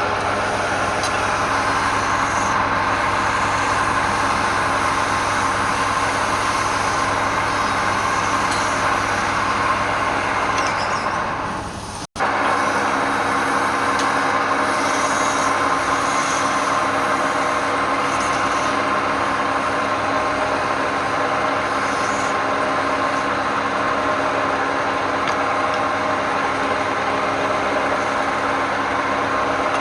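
Wood lathe running steadily, a machine hum of several steady tones over a hiss. It breaks off for an instant about twelve seconds in, then carries on.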